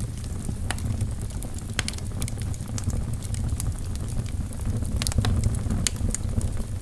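Wood fire burning in a fireplace: a steady low rumble of the flames with irregular sharp crackles and pops from the burning logs, a cluster of them about five seconds in.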